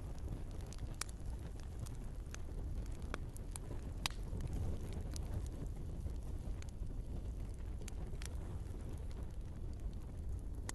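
Wood fire burning in a fireplace: a steady low rush of flame with irregular sharp crackles and pops from the logs.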